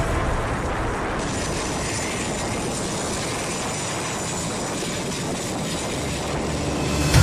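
Military jet aircraft engine noise: a steady rushing sound without a clear pitch, swelling slightly near the end.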